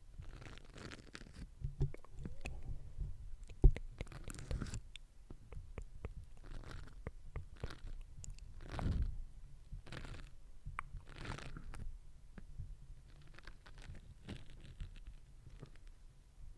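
Close-miked ASMR mouth sounds: soft wet clicks and smacks with breathy swishes about once a second, and one sharp click about four seconds in.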